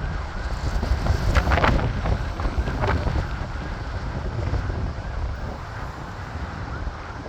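Wind buffeting the microphone over a low aircraft rumble that slowly fades.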